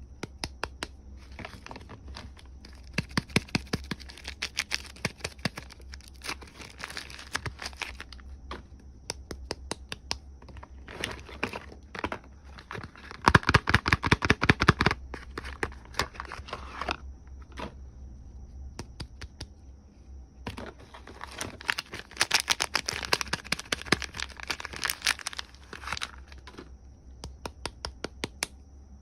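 Soap bar packaging being torn open and unwrapped by hand: bouts of crinkling and tearing with gaps between, the loudest and densest burst about halfway through.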